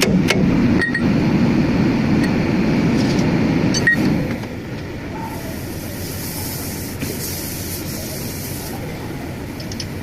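A steady low mechanical rumble, louder for the first four seconds and then quieter, with a couple of sharp metal clinks and a hiss about midway.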